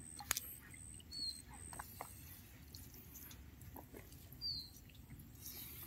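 Quiet dawn riverside air with a sharp click just after the start and two short, high, falling bird chirps, one about a second in and one about four and a half seconds in.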